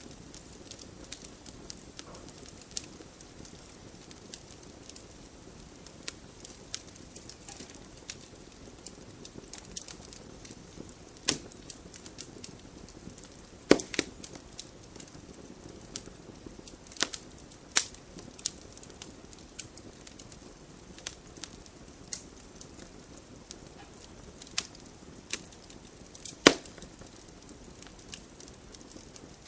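Wood fire burning in a fireplace: irregular crackling, with a few louder pops standing out over a faint steady rush of flame.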